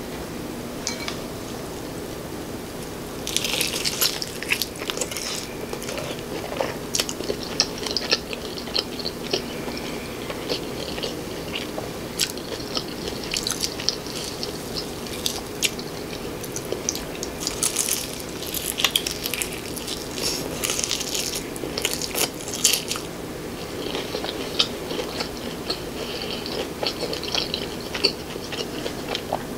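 Close-miked biting and chewing of crispy, sauce-coated fried chicken, with crunchy crackles coming in clusters from about three seconds in.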